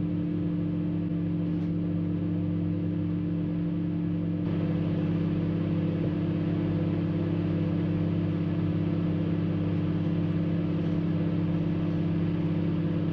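Microwave oven running with a steady electrical hum while it heats a plastic bag of crisps. The hum gets slightly louder about four and a half seconds in.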